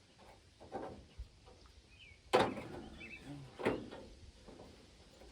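Knocks and clunks of parts being worked loose from a rusted pickup tailgate, three in all, the loudest about two and a half seconds in. Faint bird chirps in the background.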